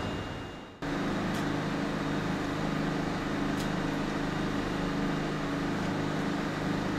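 Steady machinery hum from a standing EF64 electric locomotive and E331-series train, with a low steady drone. The sound fades, then cuts back in abruptly just under a second in.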